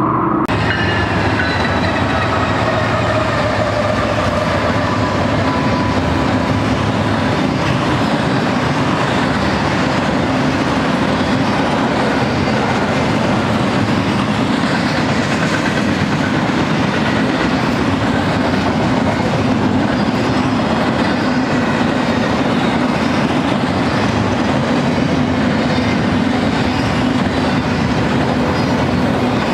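A double-stack intermodal freight train rolling past close by, its well cars making a steady loud rumble and clatter of wheels on rail. A few falling tones sound in the first several seconds.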